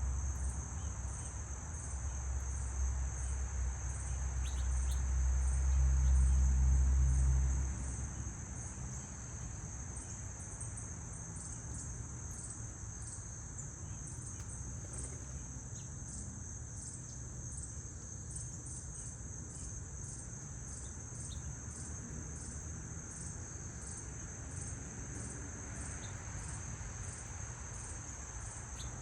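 Insects chirping steadily in a high, evenly pulsing chorus. Under it, a low rumble swells and is loudest around six seconds in, then stops about eight seconds in.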